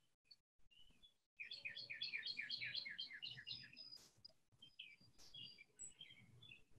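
Faint birdsong: a quick series of short repeated chirps, about five a second, for about two seconds, then a few scattered notes, with a couple of brief clicks in between.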